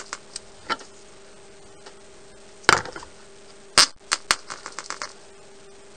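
Sharp clicks and knocks from hands working a tiny .049 model glow engine during a starting attempt, the loudest two a little under three and four seconds in, followed by a quick run of lighter clicks. A faint steady hum runs underneath.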